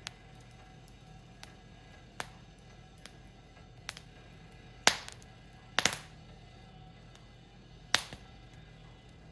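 Wood fire crackling with scattered sharp pops, the loudest three coming about halfway through and near the end.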